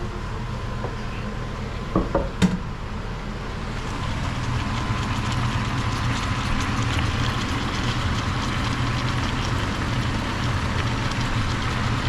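Chicken adobo sizzling in the pot on the stove over a steady low hum, with a few sharp knocks about two seconds in.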